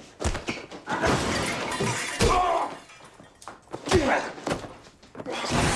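Two men brawling: heavy thuds and slams of blows and bodies hitting things, with something breaking, and short grunts and strained breaths between the impacts.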